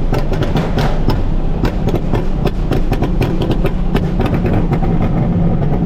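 Straight-piped Nissan 370Z's 3.7-litre V6 running loudly while driving, a steady low exhaust tone with many short sharp clicks scattered over it.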